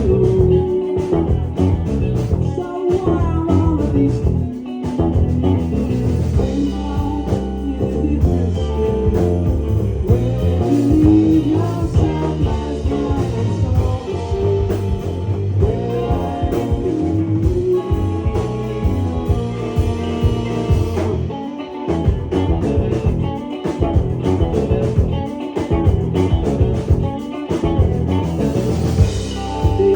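Live band music: a rock song with electric guitar, bass and drums, with some singing.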